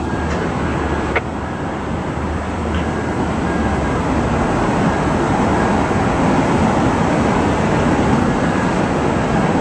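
Jet aircraft engine noise: a steady rushing rumble that grows slightly louder, with a single short click about a second in.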